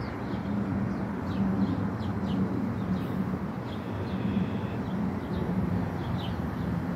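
Steady low rumble with a hum from a distant Metra commuter train, while a small bird chirps over and over in short high notes.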